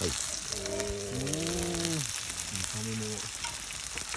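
Food sizzling and crackling as it fries over a campfire, a steady spitting hiss with fine pops. Twice a person makes a drawn-out, voice-like sound over it.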